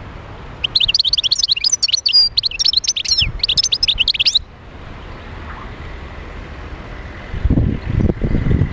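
European goldfinch song: a fast, jumbled run of twittering chirps lasting about four seconds, then stopping abruptly. A low rumble comes near the end.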